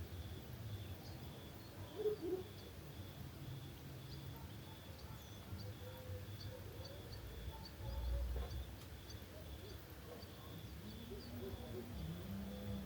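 Crickets chirping in an even pulsing rhythm, about two chirps a second, with scattered short high chirps over a low rumble.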